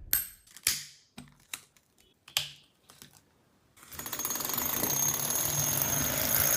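A few separate sharp clicks, then, about four seconds in, a steady rapid mechanical ticking with a thin high whine over it.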